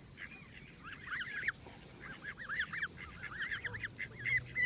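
A group of ducks calling at once: a rapid chatter of short, high, arched calls that grows busy about a second in.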